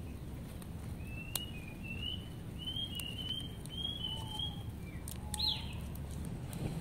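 A bird calling: a quick run of short chirps lasting a few seconds, then a single falling note. Under it is a steady low outdoor hum, with a few sharp clicks.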